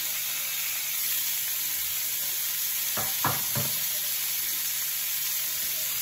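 Chicken and vegetable skewers sizzling steadily in a hot ridged grill pan, with three quick knocks close together about three seconds in.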